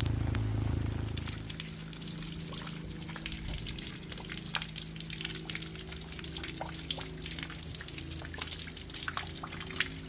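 Rainwater dripping and trickling, with many small irregular drops ticking throughout. A low steady hum fades out over the first second or two.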